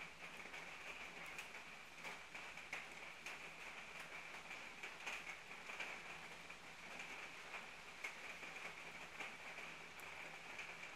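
Rain falling steadily on wet pavement: an even hiss with many small drop splats scattered through it.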